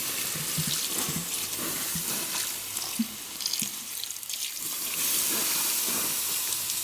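Water poured onto a campfire's glowing embers, splashing and hissing as the fire is put out, with a short lull in the middle before the pouring resumes.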